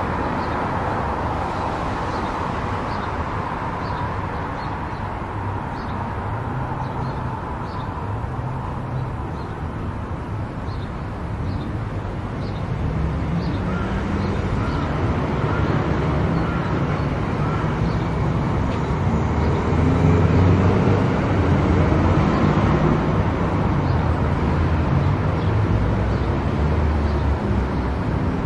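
Car driving at highway speed: steady tyre and road noise over a low engine rumble, growing somewhat louder in the second half.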